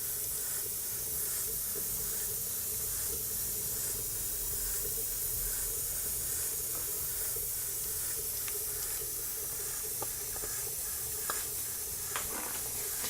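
Single-cylinder model steam engine with a 1-inch bore and 1¼-inch stroke running smoothly on live steam: a steady hiss with a fast, even exhaust beat. A few light clicks near the end.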